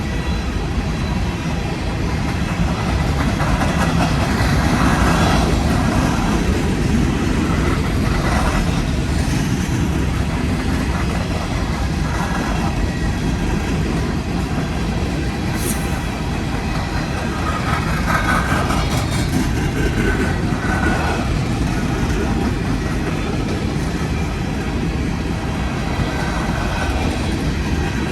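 Freight train cars rolling past: a steady rumble of steel wheels on the rails, with clickety-clack over the rail joints.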